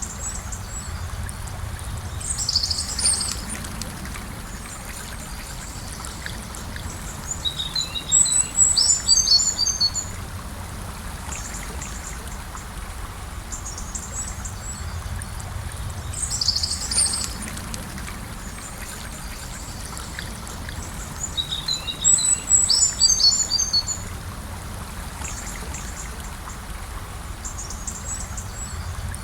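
River water flowing steadily, with bird song over it: a short high call and a longer twittering phrase, each heard twice.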